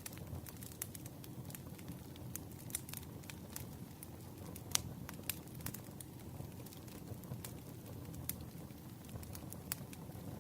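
Campfire crackling: a steady low rumble of burning wood with scattered sharp pops at irregular intervals, the loudest about halfway through.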